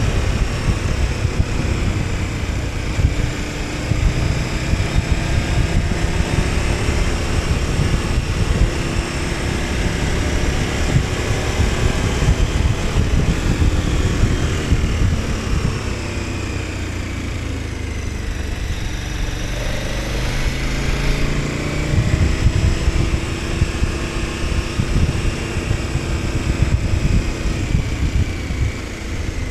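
KTM 1290 Super Adventure S's V-twin engine running on the move, its pitch dropping as the throttle is eased and then climbing again a little past two-thirds through, with heavy wind rush on the microphone.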